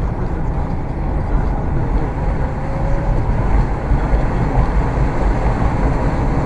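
Steady low rumble of road vehicles, loud and mostly deep, with a faint brief rising whine about halfway through.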